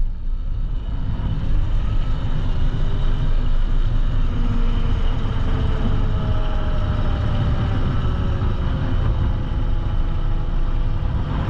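QS138 electric dirt bike motor at full throttle, its whine climbing slowly in pitch as the bike accelerates toward top speed, under heavy wind rumble on the microphone.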